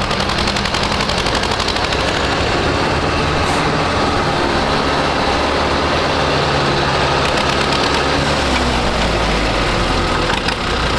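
Tractor diesel engine running loud and steady, its pitch shifting partway through as the throttle changes.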